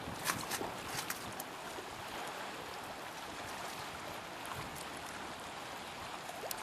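Steady rushing noise of strong wind in a snowstorm, with a few short clicks in the first second and another near the end.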